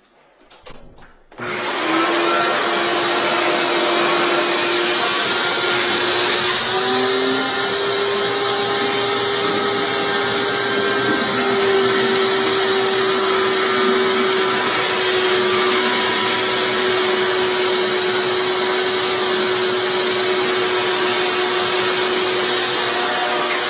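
An electric motor of drain-cleaning equipment switches on about a second and a half in and runs steadily with a constant whine, working on a drain blocked for about a week.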